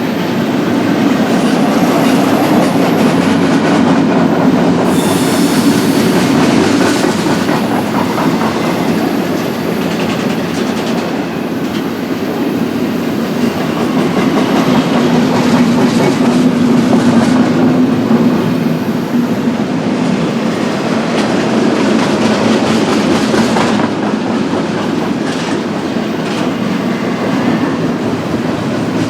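BNSF double-stack intermodal freight train rolling past, a steady, loud rumble of steel wheels on rail as the cars go by.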